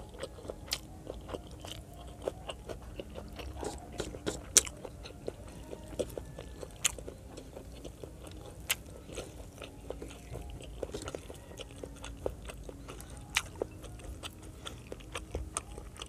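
Close-up chewing of fatty pork adobo and rice, with many short, sharp mouth clicks at irregular intervals.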